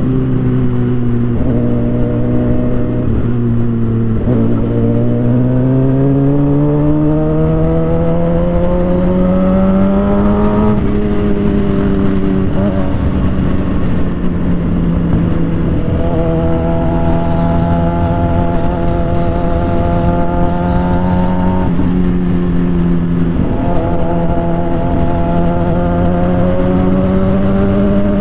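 Suzuki GSX-R 750's inline-four engine under way. It pulls up steadily through the revs for several seconds and drops abruptly about eleven seconds in, then holds a steady, higher note with a few brief dips.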